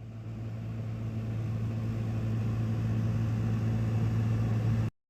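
A steady low hum from a motor or appliance, growing slightly louder and cutting off abruptly near the end.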